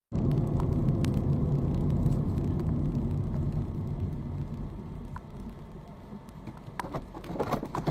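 Car running, a steady low rumble of engine and road noise that eases off after about three seconds, with a few light clicks.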